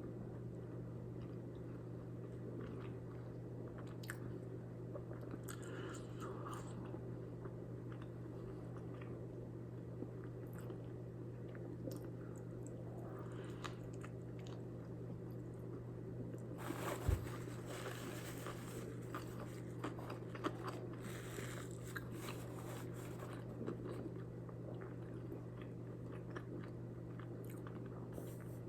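A person chewing a smashburger: faint, irregular biting and mouth sounds with scattered small clicks, over a steady low hum. A single sharp knock comes about two-thirds of the way through.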